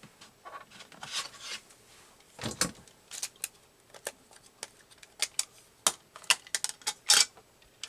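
Small clicks, taps and short rustles of a rubber stamp and a VersaFine ink pad being handled on a table, likely the pad being opened and the stamp inked. The taps come thickest near the end.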